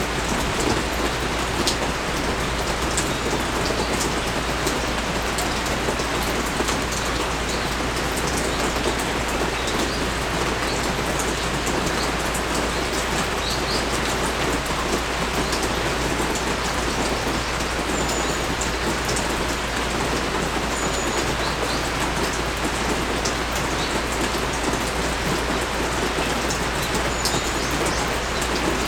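Steady heavy rain pouring down and pattering on surfaces, with individual drops ticking close by.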